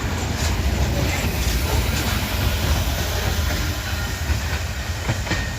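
Freight train cars, including covered grain hoppers, rolling past on the rails: a steady rumble with a few wheel clicks over the rail joints.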